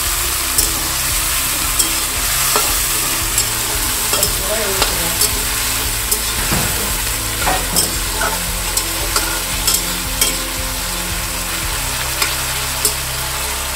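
Onion, garlic, tomato and onion paste sizzling as they fry in oil in a metal karahi. A metal spatula stirs them, scraping and clicking against the pan every half second to second or so.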